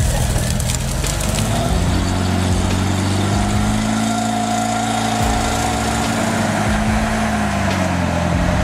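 Engine of a custom off-road truck built on a GAZ-66 frame with Kirovets wheels, working under load. Its pitch rises about two seconds in and holds high, then dips briefly and comes back up near the end.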